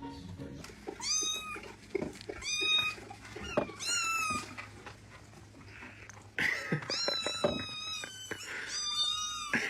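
Domestic cat meowing repeatedly: about six drawn-out meows, each bending down in pitch at the end, with a pause of about two seconds midway.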